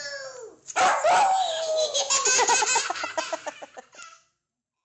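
A pug howling, a wavering high call that the toddler's own drawn-out howl sets off, followed by a run of quick laughter; it all stops about four seconds in.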